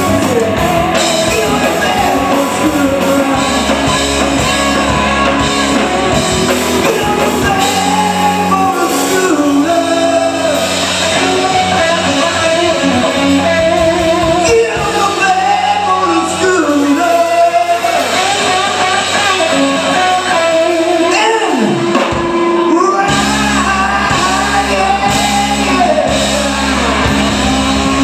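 Live rock band playing: electric guitar, bass and drums with a male singer. The low end drops out briefly with a falling slide about 22 seconds in, then the full band comes back in.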